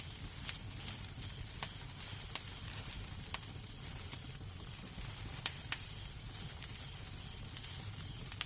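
Wood fire crackling in a fireplace: a steady soft hiss and low rumble with scattered sharp pops, the loudest two close together about five and a half seconds in.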